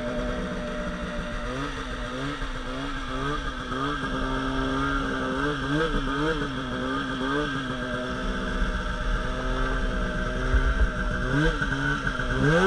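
Polaris RMK Pro 800 two-stroke snowmobile engine running, its pitch rising and falling with repeated blips of the throttle. Near the end the revs climb sharply.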